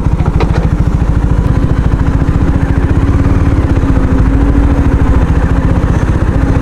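Motorcycle engine running at a steady low speed over a rough, rocky off-road track, with a fast even exhaust pulse and a few clatters about half a second in.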